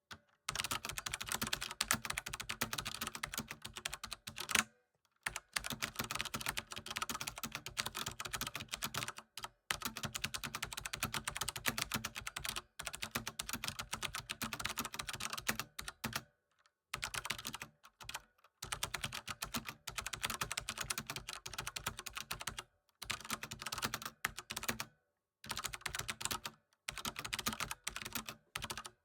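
Continuous fast typing on a computer keyboard, a rapid clatter of key clicks in runs of a few seconds with brief full pauses between them.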